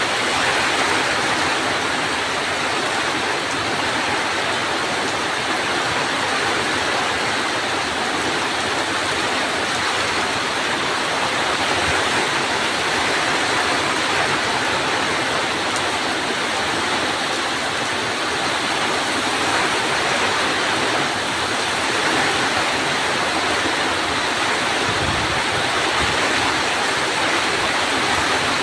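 Heavy rain pouring steadily, an even, unbroken hiss of rainfall.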